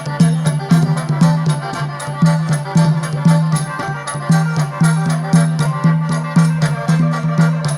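Instrumental mor lam music from the backing band between sung verses, with a steady beat of about two low strokes a second and shaker-like ticks above it.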